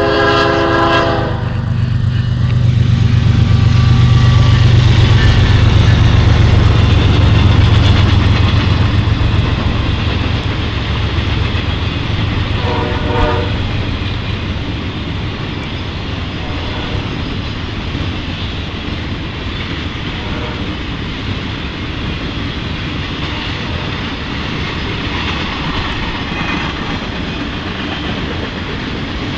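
Norfolk Southern maintenance-of-way rail train passing: a short horn blast as it opens, the deep rumble of the diesel locomotive swelling and then fading over the first ten seconds, another brief horn note about 13 seconds in, then the steady rolling noise of the cars going by.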